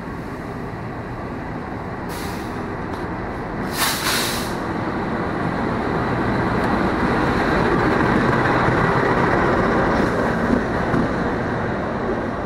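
Diesel-electric locomotive hauling a passenger train arriving at a station platform. Engine and wheel-on-rail noise grows louder as it draws level and the coaches pass close by, with a short sharp hiss about four seconds in.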